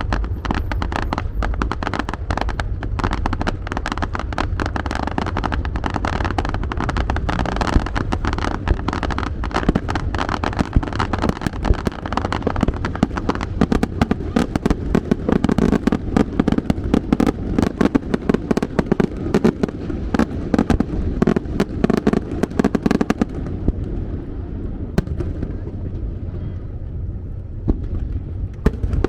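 Aerial fireworks going off in a rapid, dense barrage of booms and crackles, thinning out to scattered bangs about three quarters of the way through.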